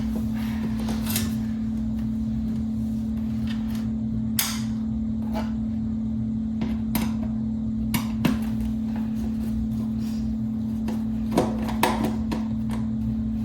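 Scattered sharp metallic clicks and taps, about eight in all, as screws and a screwdriver work the front grille of a metal box fan back on, over a steady low hum.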